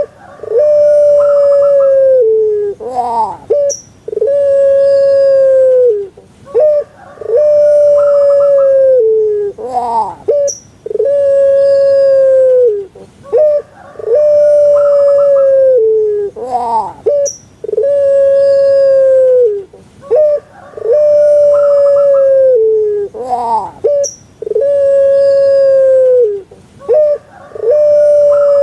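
Puter pelung (Streptopelia risoria, a long-calling domestic dove) calling over and over, about every three seconds. Each call is a few short quick rising notes followed by one long, drawn-out low coo that drops in pitch at its end.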